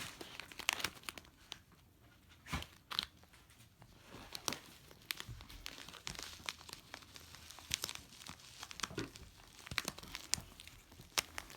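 Crinkly gift packaging being crumpled and torn open, in irregular bursts of crackling; it is sealed shut well, so it takes some working.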